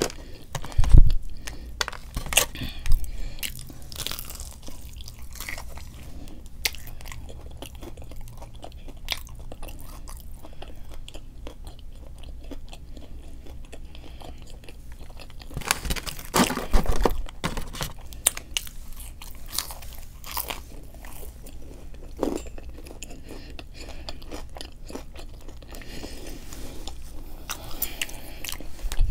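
A person eating Raising Cane's fast food close to the microphone: repeated bites and crunchy chewing. The loudest crunches come about a second in, around three seconds in and around sixteen to seventeen seconds in.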